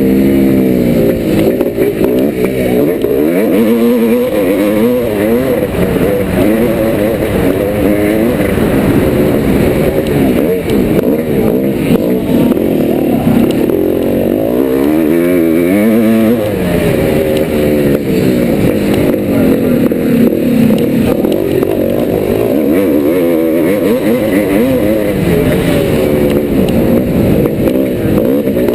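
A 1990 Yamaha YZ490's single-cylinder two-stroke engine being ridden hard, its pitch rising and falling again and again as the throttle is opened and closed.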